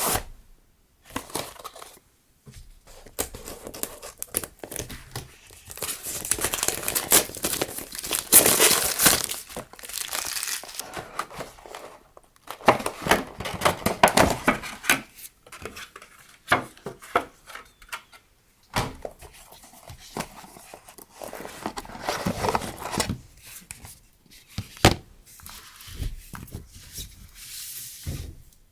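Packaging being crinkled and torn open by hand, in irregular rustling bursts with a few sharp clicks and taps, as stationery tapes are unpacked.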